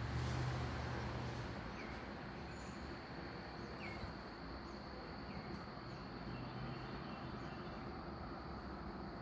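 Outdoor ambience: a steady hiss with a constant high insect drone and a few short bird chirps. A low hum sounds in the first second and a half and again about six seconds in.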